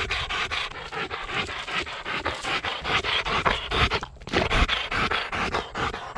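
German shorthaired pointer panting hard and fast, about five pants a second, with a short break about four seconds in. The dog is overheating.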